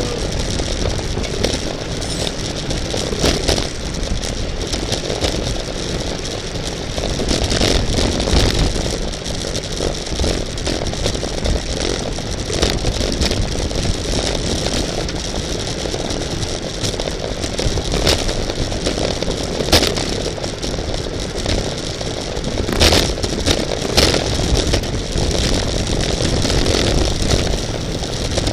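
Steady rush of wind and road noise from a racing bicycle, with scattered rattles and clicks throughout.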